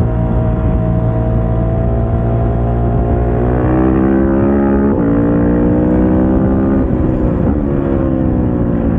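KTM 690 SMC-R's single-cylinder four-stroke engine under riding load. The revs sag slowly, then climb hard, with a brief break about five seconds in as a gear changes, and drop again near the end as the throttle closes.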